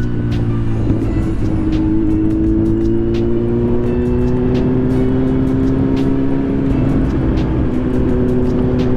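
Kawasaki Z900's inline-four engine running under way at a steady cruise, its pitch rising slowly as the bike gathers speed, over low wind rumble.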